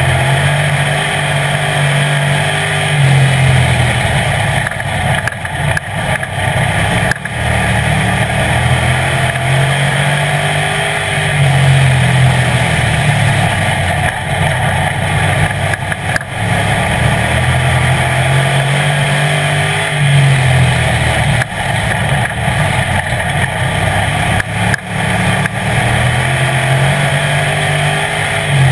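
Street stock race car engine heard from inside the car, accelerating hard and easing off in a repeating cycle about every eight to nine seconds as it laps the oval.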